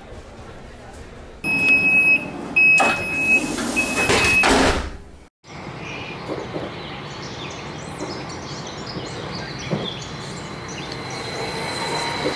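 Three high warning beeps with sliding train doors hissing shut, then, after a brief break, a train running steadily along the track as it departs.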